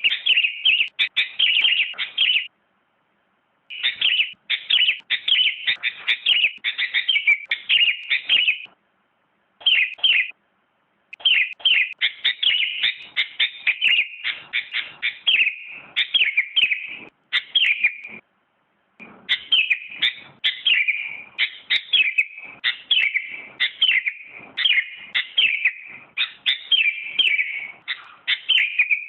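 Sooty-headed bulbul (kutilang) singing long runs of rapid chirping notes, broken by a few short pauses.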